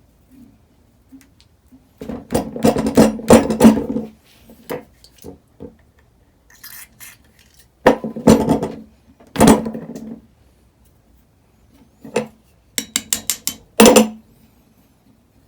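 Metal tools and engine parts clinking and clattering as the valves are taken out of a Honda XR250L cylinder head. The sound comes in three bursts of quick sharp clicks and knocks with pauses between them.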